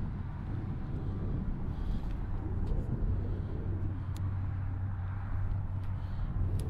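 Car engine idling: a steady low rumble, with a few small clicks over it.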